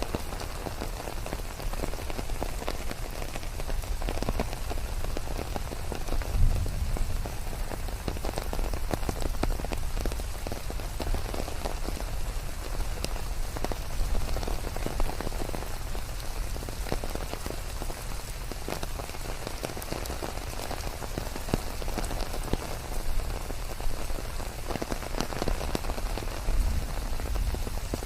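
Steady rain falling, dense patter of raindrops on leaves with a low rumble underneath and a few louder drops standing out now and then.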